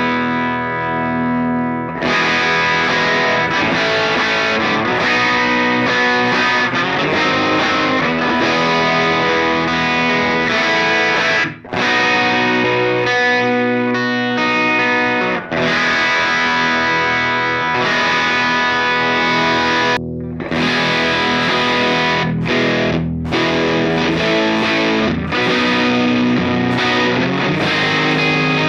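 Electric guitar through a ProCo RAT distortion pedal, playing sustained distorted chords with a few short breaks. For about the first 20 seconds it goes through a current RAT2; after the break about 20 seconds in, it goes through a modified RAT built to 1979 vintage spec.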